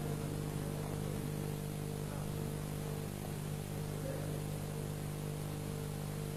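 Steady electrical mains hum with a background hiss.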